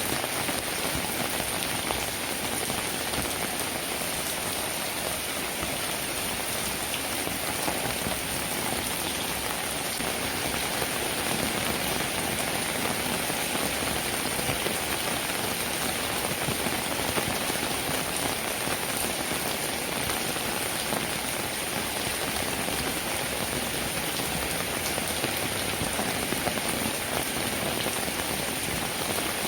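Steady rain, many fine raindrops pattering without letup.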